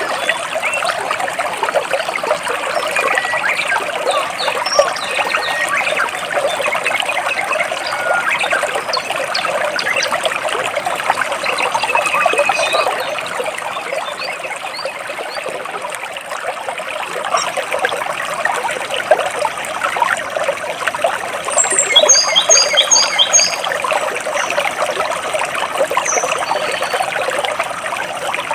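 Stream water running and trickling between rocks in a steady, dense babble. Short high bird chirps come now and then, with a quick run of repeated high notes about three-quarters of the way in.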